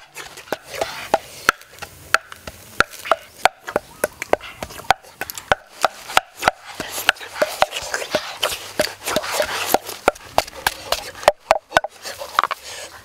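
Eating sounds close to the microphone: people chewing with their mouths open, a rapid, irregular run of sharp mouth clicks and smacks.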